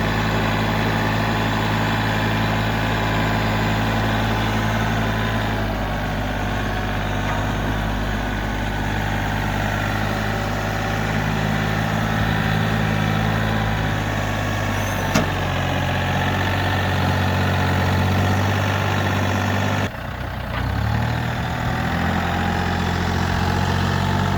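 John Deere tractor engine running steadily, its pitch shifting slightly partway through. One sharp click about fifteen seconds in. The sound breaks off abruptly near twenty seconds, then picks up again.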